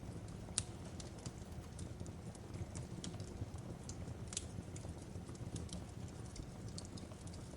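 Wood fire crackling: a steady low rumble of flames with irregular sharp pops and snaps, two of them louder, about half a second and about four and a half seconds in.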